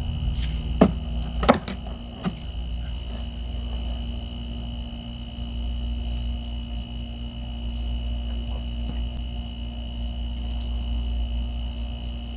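Three sharp clicks within the first two and a half seconds over a steady low hum.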